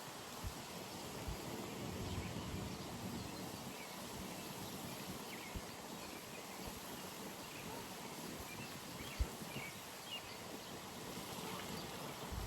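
Outdoor pond ambience: a steady background hiss with faint, scattered bird chirps and a few soft low thumps, the sharpest about nine seconds in.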